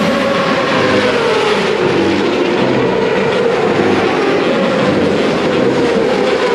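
An engine running steadily while its pitch falls slowly and evenly throughout, over a wash of noise.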